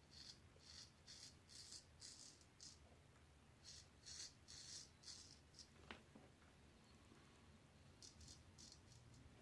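Faint short scraping strokes of a straight razor cutting lathered stubble on an across-the-grain pass, about two strokes a second in three runs with pauses between.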